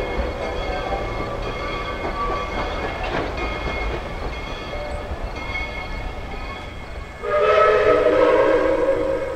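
Steam locomotive whistle blowing a chord. A loud, long blast starts suddenly about seven seconds in, over the low rumble of the train. Fainter, higher tones come and go before it.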